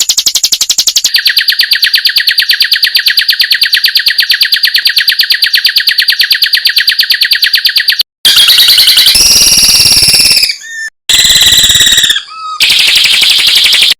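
Songbird 'tembakan' call, a machine-gun-like rapid stream of sharp repeated notes, looped as masteran training audio for songbirds. About eight seconds in it switches to a louder, harsher stretch of the same rattling, broken by two abrupt short gaps with brief falling whistles.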